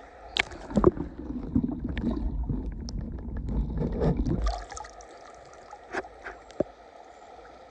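Muffled sloshing and gurgling of water heard through a camera's waterproof case as it is dipped underwater for a bass release, with knocks against the case; it quietens after about four and a half seconds.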